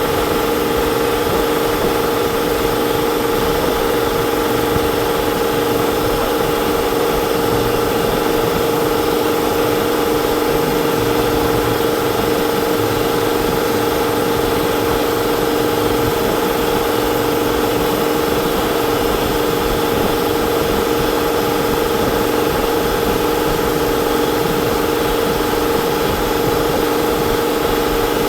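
Steady motor hum at a constant pitch, unchanging throughout.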